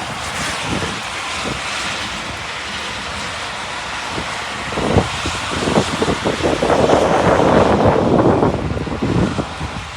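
Rainstorm noise with wind buffeting the microphone in low thumps, and a louder rushing swell that builds about halfway through and eases off near the end.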